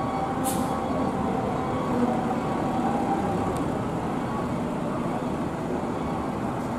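Large buses' diesel engines running at a bus terminal under a steady wash of heavy rain, with a short sharp hiss about half a second in.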